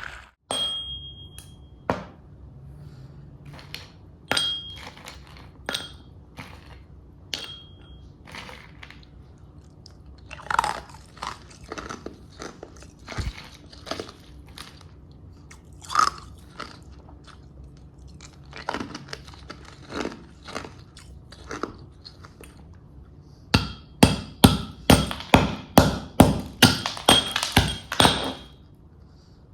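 Ice being bitten and chewed close up: sharp, separate crunches, a few of them followed by a brief high ring, then a quick run of louder crunches, about three a second, near the end.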